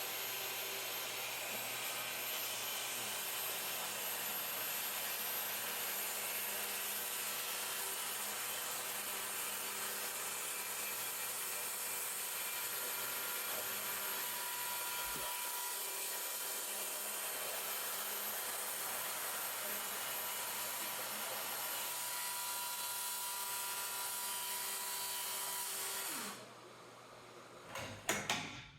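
DeWalt FlexVolt 60V brushless cordless track saw with a 6-1/2-inch blade, running steadily through a long cut in a 2-inch-thick Douglas fir slab, with a battery dust extractor running along with it. About 26 seconds in the saw is switched off and winds down.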